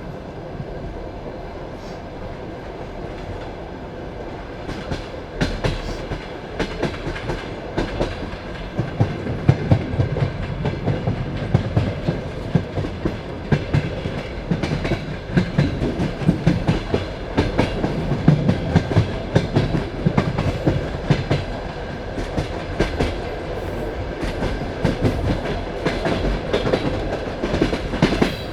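Passenger railway carriage rolling along the track, heard from inside, with a steady rumble and a faint steady whine. About five seconds in, sharp irregular clicks of the wheels over rail joints begin and carry on.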